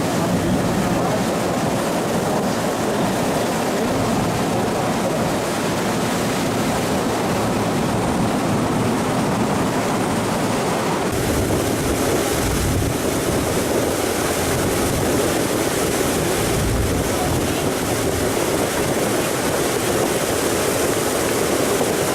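Motorboat under way: the motor runs steadily under the rush of water along the hull, with wind buffeting the microphone. About halfway through the hiss of water and wind grows brighter.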